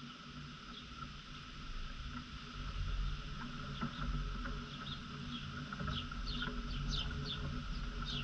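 Small birds chirping in short, high chips, more often in the second half, over a steady low rumble and a faint steady high note.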